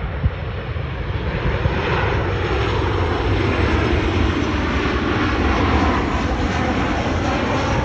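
Jet airliner's engines as it comes in to land: a steady roar that builds after about a second and stays strong.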